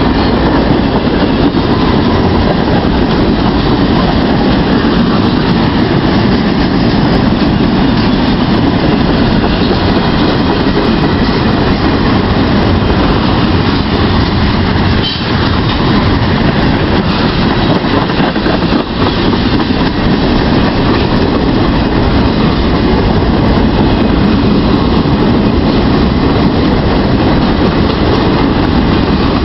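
Norfolk Southern freight train's cars rolling past at high speed: a loud, steady noise of steel wheels on rail with no break.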